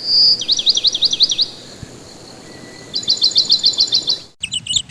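A small bird calling: a short held whistle, then a run of quick down-and-up whistled chirps, and after a pause a fast trill of short chirps.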